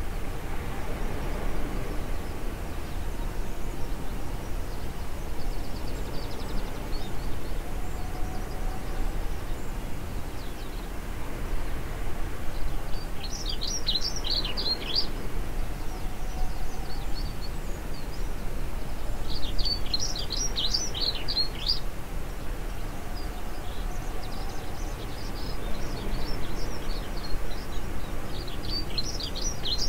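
A small songbird singing three short bursts of rapid high notes, each about two seconds long, over a steady low background noise.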